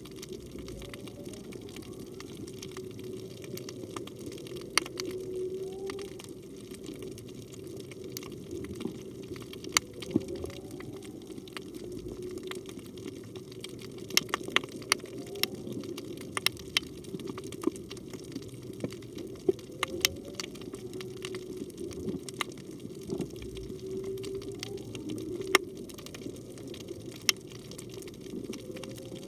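Whale song heard underwater: short gliding moans, mostly rising, recur every few seconds over a steady wash of water noise. The uploader takes it for a humpback whale. Sharp clicks and crackles are scattered throughout.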